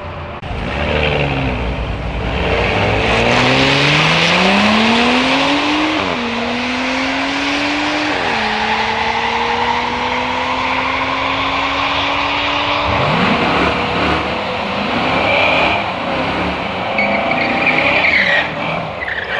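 Drag-racing car launching and accelerating down the strip. Its engine climbs in pitch, drops at two gear changes about six and eight seconds in, then pulls steadily higher until the note ends about thirteen seconds in.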